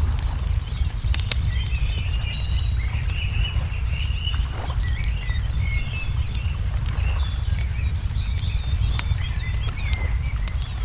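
Layered ambience: a wood fire crackling with scattered sharp pops, and songbirds chirping and trilling all through, over a steady deep rumble.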